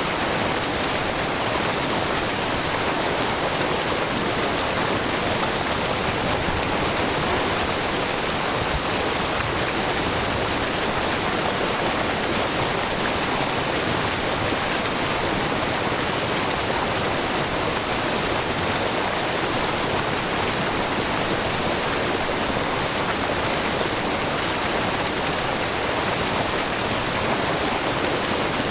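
A wide, low waterfall with spring water falling over a rock face, making a steady, even rush of water.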